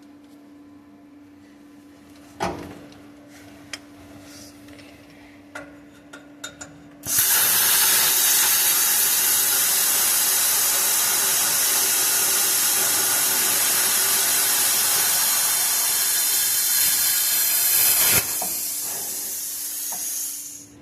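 Bestarc plasma cutter cutting exhaust pipe: after a few light knocks over a steady hum, the torch fires about seven seconds in with a loud, even hiss that holds for about eleven seconds. It then drops to a quieter air hiss that stops near the end, as the arc goes out and the air flow runs on.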